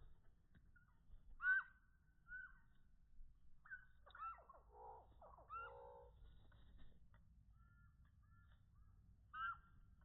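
Chickadees giving short calls, scattered through the quiet. A burst of several calls comes together around the middle.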